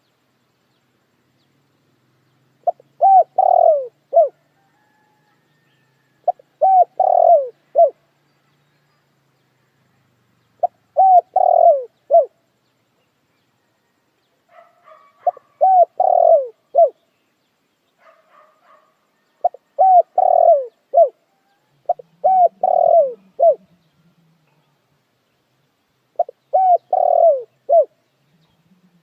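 Spotted dove cooing: seven repeated coo phrases, each a quick run of several notes lasting about a second and a half, every few seconds. Faint chirps of other small birds in between near the middle.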